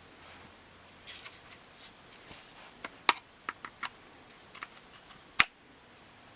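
Plastic clicks and rattles as parts of a front-load washing machine's drain pump assembly are worked loose by hand, with a sharp snap about five seconds in.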